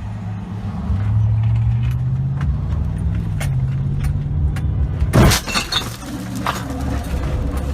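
A car engine running with a slowly rising pitch, then about five seconds in a sudden loud crash of a vehicle collision, followed by about a second of clattering debris.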